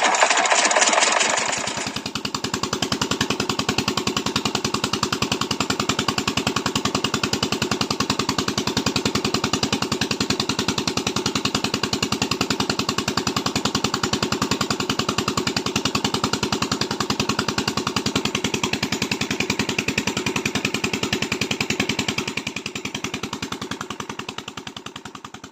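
Miniature toy diesel-engine water pump running with a fast, even chugging pulse. It is louder and noisier for the first second or so, then runs steadily and fades away over the last few seconds.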